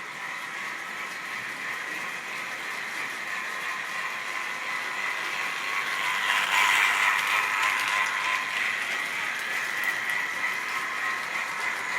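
Model railway train running on the track: a steady electric motor and gear whine with rattling clatter from the wheels. It grows louder as the train comes close, loudest about six to eight seconds in, then eases off a little.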